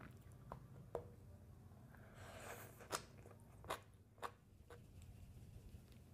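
Faint mouth and eating sounds: about six soft, crisp clicks and crunches spread out, with a brief soft rustle about two seconds in, over a low steady hum.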